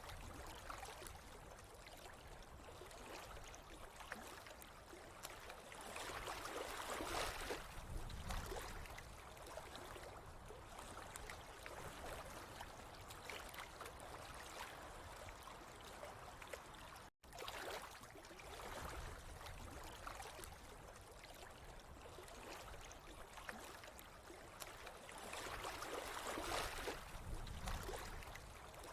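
Water flowing and trickling steadily, swelling louder twice, with a brief sudden cut-out of all sound about two-thirds of the way through.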